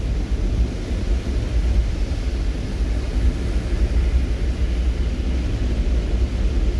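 Steady low rumble with a faint even hiss of rain above it.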